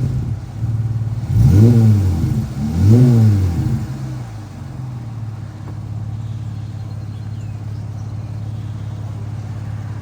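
Dodge Challenger SXT's V6 with the mufflers deleted and the resonators kept: the throttle is blipped twice in the first four seconds, each rev rising and falling, and then the engine settles into a steady idle.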